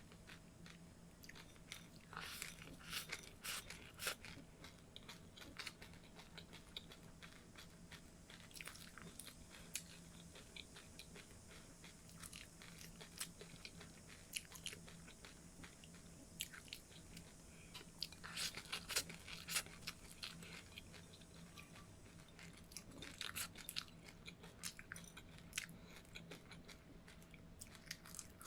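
A person chewing crunchy seeds close to the microphone: crisp crunches and clicks that come in clusters, with a faint steady hum underneath.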